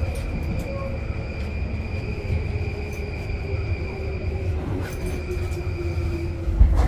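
Tobu 10030-series electric train running, heard from the cab: a steady low rumble of wheels on track with a thin steady high tone. A motor whine slowly falls in pitch as the train brakes into the station, and heavier low thumps come in near the end.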